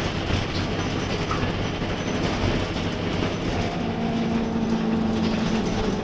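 Scania K230UB bus running, its Scania D9C diesel engine and ZF six-speed automatic gearbox under way amid steady road and body rattle noise. A steady hum drops back in about three and a half seconds in.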